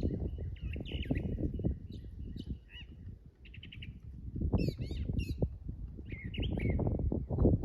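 Small backyard birds chirping and calling with short, quick notes, including a fast run of clipped notes about three and a half seconds in, over a low crackling noise.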